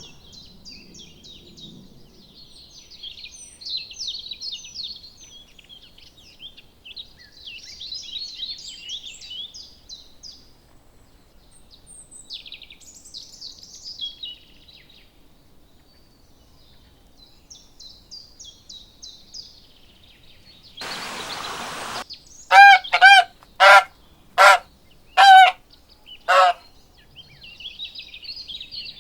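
Small birds chirping in quick, high twitters, then a brief hiss, followed by six loud, short calls from farm fowl, each call arching up and down in pitch.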